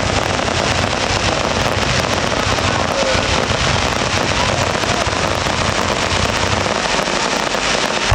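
Fireworks going off in a dense, continuous crackle of many small rapid bursts, with no single big bang standing out.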